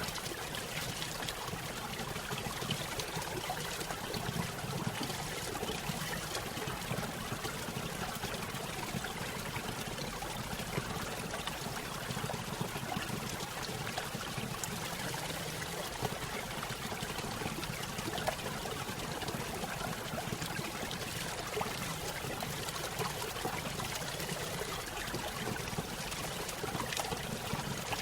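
Small stream pouring over a little waterfall, a steady trickling and splashing of water.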